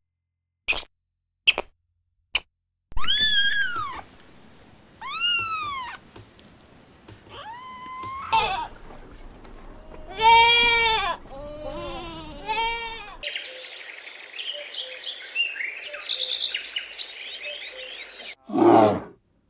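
A string of different animal calls, one after another. First come several separate calls about a second long, each rising then falling in pitch, some of them wavering like bleats. Then a stretch of busy high-pitched chattering, and near the end a short, loud, low roar.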